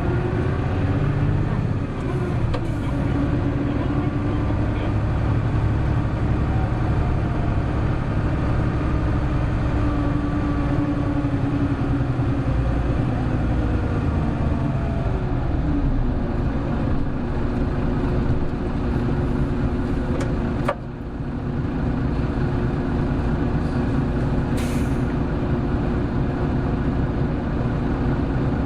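Interior running sound of a Hino Blue Ribbon City Hybrid diesel-electric city bus under way: the drivetrain's pitch holds steady, then falls away around the middle before settling again. A sharp click with a brief drop in level comes about two-thirds of the way in, and a short air hiss follows a few seconds later.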